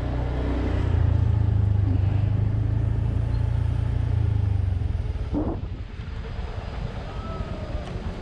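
Motor vehicle's engine and road rumble heard from inside the vehicle, steady at first, then easing off about five seconds in as it slows, with a brief squeak partway through.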